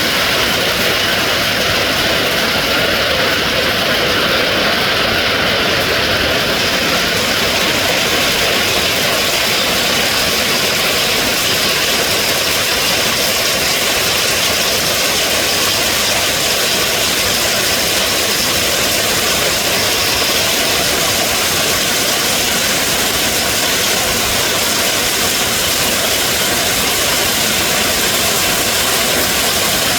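Heavy monsoon rain pouring down, a steady, even hiss.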